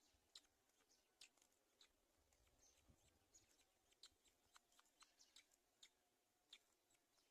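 Near silence, broken by faint, sharp, irregular clicks and ticks, a few each second.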